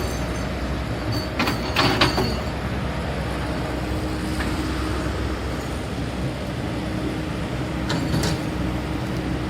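Hydraulic excavator's diesel engine running steadily, with sharp metallic clanks about one and a half to two seconds in, one of them ringing briefly high, and another clank near the end.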